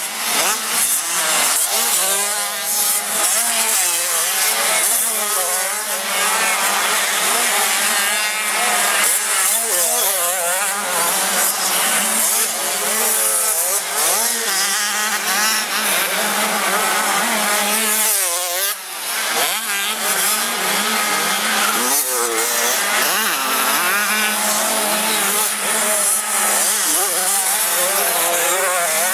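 Several 85 cc two-stroke motocross bikes racing, their engines revving up and down and overlapping, with no let-up.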